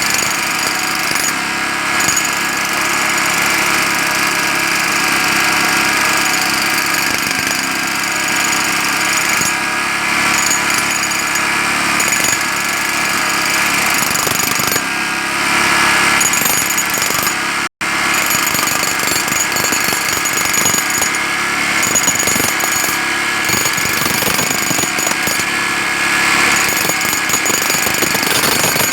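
Jackhammer hammering continuously, with a brief cut-out a little over halfway through.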